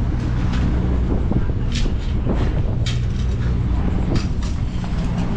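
An engine running steadily with a low hum, with several short hissing or scraping sounds on top.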